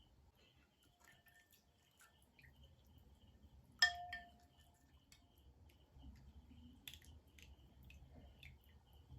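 Faint, steady cricket chirping, with scattered soft clicks and a single sharp, ringing clink of tableware about four seconds in.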